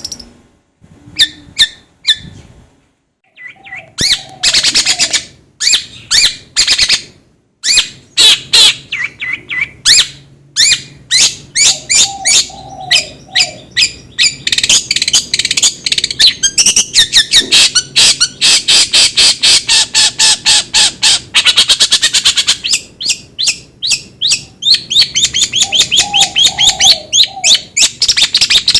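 Songbird calling in a long, rapid run of short, sharp, high chirps, sparse at first and then coming many times a second, with a few brief lower warbling phrases in between.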